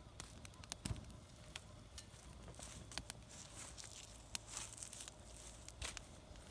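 Wood fire crackling in a small fire pit: irregular sharp pops and snaps over a faint hiss.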